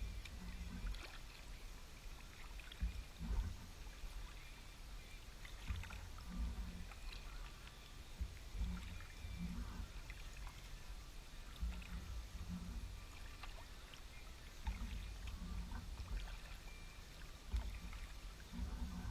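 Kayak being paddled on calm water: soft, irregular paddle strokes with a low knock and swish about every second or so.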